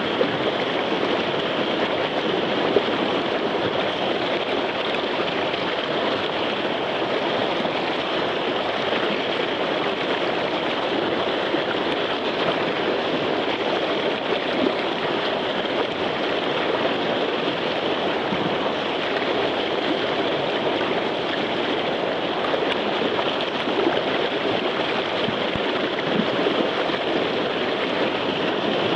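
Whitewater river rapid rushing steadily, a continuous wash of moving water.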